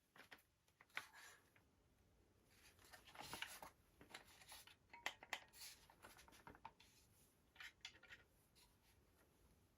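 Faint handling noises of airsoft gun parts: scattered small clicks and short rustles. The sharper clicks come about a second in and twice around five seconds in.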